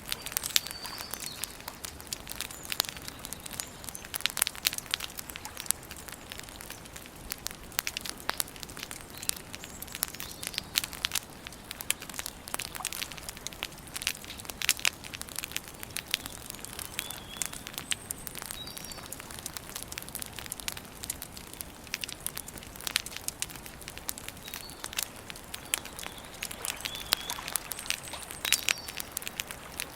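Wood campfire crackling and popping in dense, irregular snaps, with a few short, high bird chirps scattered through.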